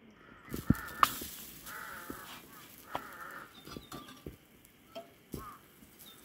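A few short, harsh bird calls, like crows cawing, with several sharp clicks and knocks in between. The loudest knocks come about a second in.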